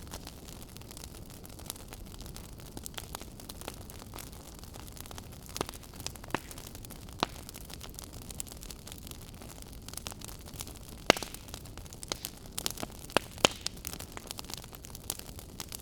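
Fire crackling: a steady hiss and low rumble with irregular sharp pops and snaps, a few louder snaps in the second half.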